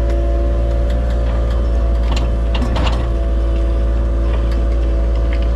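Compact excavator's diesel engine running steadily under load while digging and loading fill. A few sharp clanks come about two and three seconds in.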